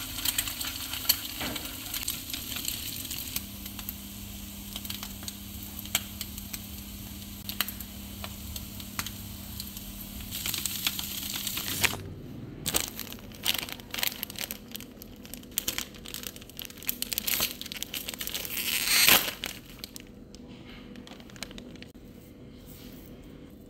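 Egg and carrot sticks sizzling in a frying pan, with chopsticks clicking against the pan as they stir. About twelve seconds in, the sizzling stops and a plastic packet of seaweed sheets crinkles as it is handled, loudest a little before the end.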